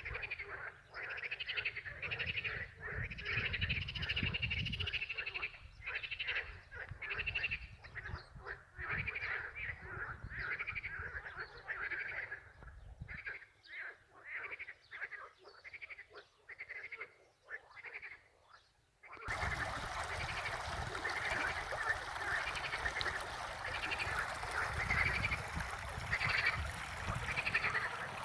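A chorus of frogs croaking in rapid, overlapping repeated calls. About two-thirds of the way through, a steady rushing noise comes in suddenly beneath the calls.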